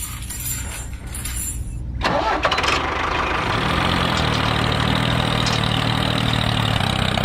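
A small engine cranks and catches about two seconds in, then runs steadily.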